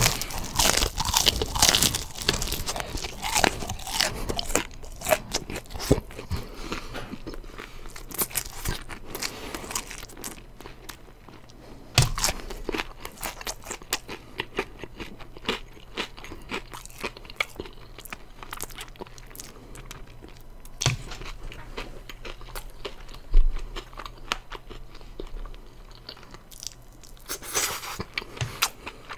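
Close-up chewing and crunching on crispy fried chicken. The crunches come thick for the first ten seconds or so, then thin out into sparser chewing, with a few low thumps.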